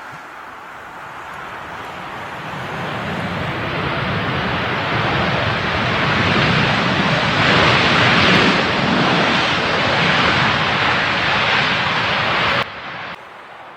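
Jet airliner on approach to land, passing close: its engine noise swells over several seconds to a peak, then cuts off suddenly near the end.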